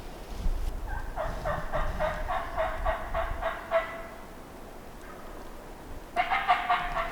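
Wild turkey calls: a run of rapid, pitched notes lasting about three seconds, then a shorter, denser burst near the end, over low wind rumble on the microphone.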